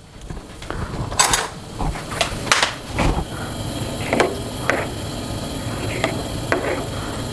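Parboiled oysters being rinsed and handled in a pot: a string of sharp knocks and clatters of shells and cookware over a steady rushing noise.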